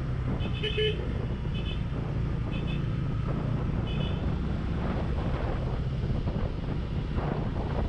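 Benelli TNT 25 motorcycle's single-cylinder engine running steadily under way, with wind on the microphone growing gustier in the second half. In the first half come short high beeps about once a second, the loudest a little under a second in.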